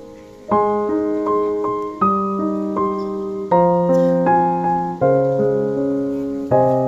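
Background piano music: slow chords struck about every one and a half seconds, each fading before the next, starting about half a second in.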